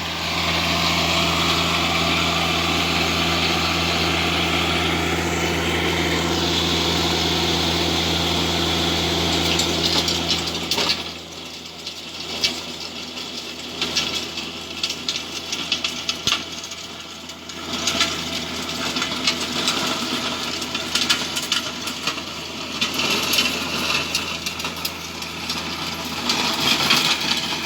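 Tractor engine running steadily at work tilling the ground; about eleven seconds in its steady hum drops away, leaving uneven rattling and knocking for the rest.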